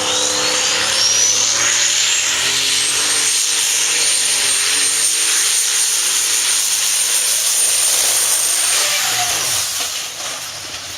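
Pulling vehicle's engine running hard under full load during a pull, with a high turbocharger whine that rises over the first few seconds and then holds. Near the end the whine fades and the engine noise drops back.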